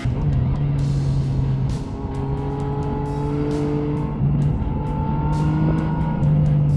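Motorcycle engine running at a steady cruising pace. Its note rises a little about four seconds in and again near the end, with wind rushing over the microphone.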